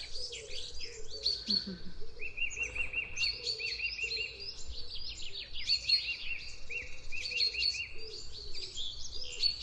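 Small songbirds chirping, the calls overlapping at two pitches, with a fast run of repeated chirps from about two seconds in until near the end.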